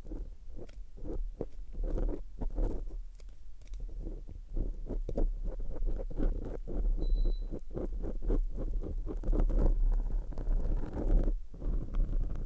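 Close-up ASMR microphone licking: a dense, irregular stream of short clicks and rubbing sounds on the mic, over a steady low hum.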